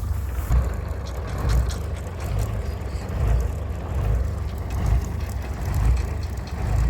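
Heavy diesel engine running with a deep rumble that swells and eases about once a second, with scattered faint clicks and knocks.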